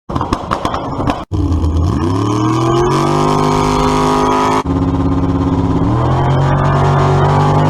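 Engine revving in short edited clips: the pitch climbs and then holds steady. The sound cuts off abruptly about a second in and again a little past halfway.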